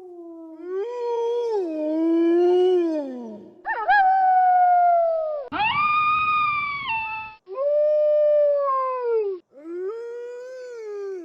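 Wolves howling: a run of about five long howls one after another, each holding a pitch and then sliding down at the end, several starting or stopping abruptly.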